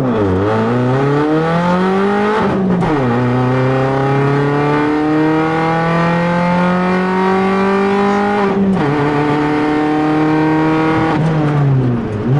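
Peugeot 206 rally car's four-cylinder engine heard from inside the cabin, accelerating hard through the gears with upshifts about two and a half and eight and a half seconds in, then easing off and dropping in pitch near the end as the car slows.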